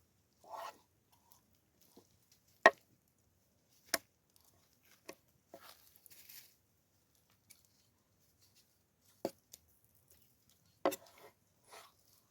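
A knife chopping food on a cutting board: a handful of separate sharp chops, the loudest about a third of the way in, with softer handling and rustling sounds between them.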